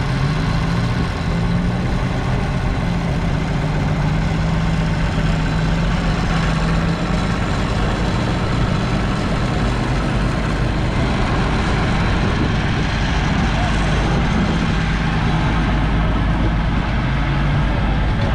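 1973 Massey Ferguson 1200's 5.8-litre six-cylinder diesel engine running steadily.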